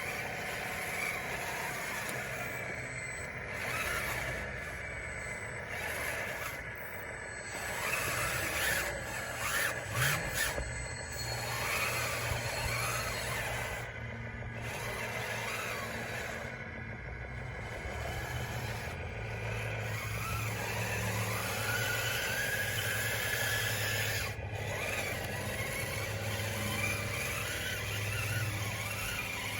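DXR2 RC bulldozer working, its electric drive motors and gearboxes whining with a pitch that rises and falls as it drives, over a steady low hum.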